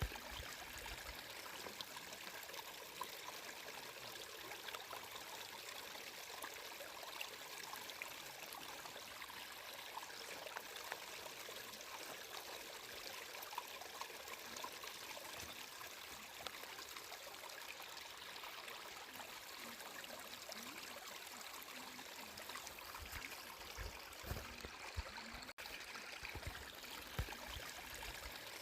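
Water flowing steadily in a small stream, a continuous trickling splash, with a few low rumbles near the end.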